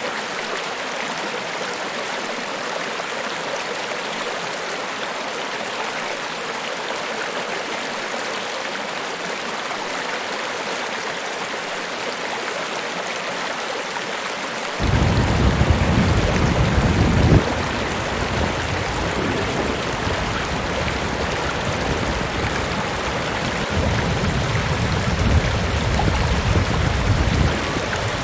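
Niagara Falls: a steady rush of falling water. About halfway through, a louder deep rumble cuts in suddenly and comes and goes in patches over the rush.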